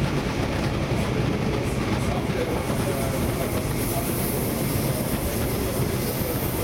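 Interior running noise of a DB class 420 electric multiple unit moving at speed: steady wheel-on-rail rolling noise with a low hum, and a high hiss that grows stronger about three seconds in.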